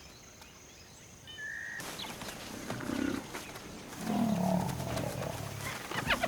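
Lion growling in low grunts, starting about two seconds in and loudest between about four and five and a half seconds.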